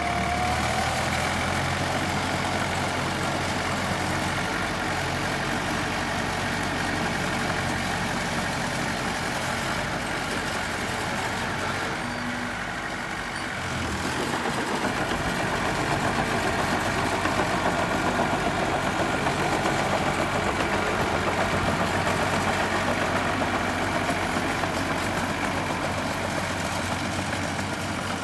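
Diesel engine of a piece of earthmoving equipment running steadily. It eases off briefly about twelve seconds in, then runs a little louder again.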